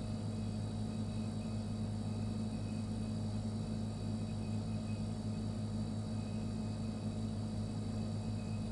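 Refrigerator running: a steady low hum, with a faint high whine above it.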